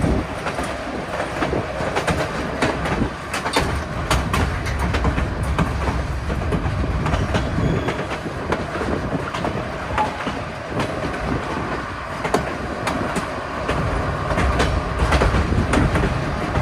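Narrow-gauge passenger train rolling along, heard from the open platform of a coach: a steady rumble of wheels on the rails with irregular clicks and clacks scattered through it. The low rumble is heavier near the start and again near the end.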